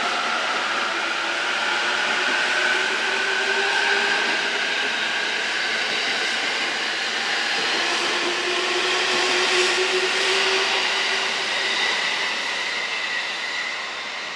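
Jōban Line electric train running past a station platform: the noise of wheels on rail with a steady whine over it, dying away near the end.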